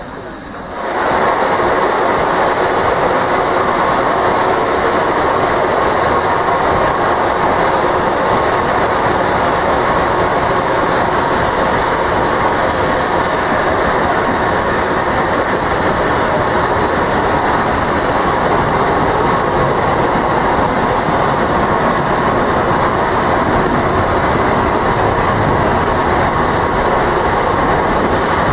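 Goods wagons of a steam-hauled freight train rolling past, a steady loud clatter and rumble of wheels on the rails that starts abruptly about a second in.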